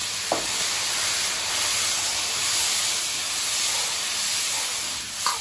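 Raw chicken pieces sizzling in hot oil in a wok: a steady, loud hiss, just after the chicken goes in. A metal ladle stirring them gives a short tap about a third of a second in and another near the end.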